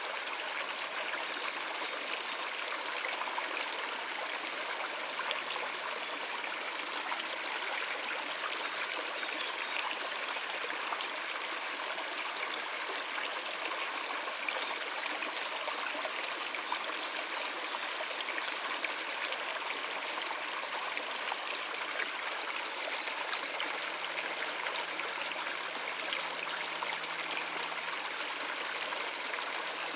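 Shallow stream running over rocks, a steady rushing and trickling. A short run of high bird chirps comes about halfway through.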